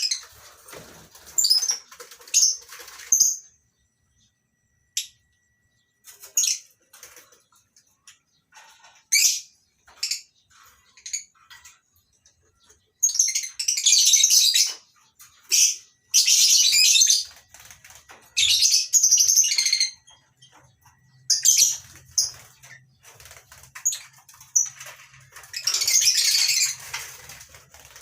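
A flock of lovebirds chattering and screeching in a colony aviary: sharp, high-pitched calls in short bursts, running together into long loud stretches in the middle and near the end.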